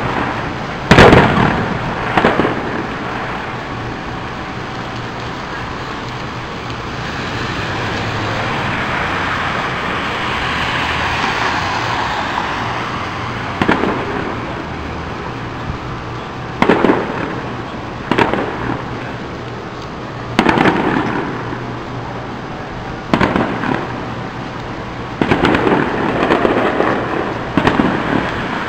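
Fireworks display: aerial shells bursting with sharp bangs, two early on and then one every two to three seconds in the second half, with a steady hiss and rumble between them.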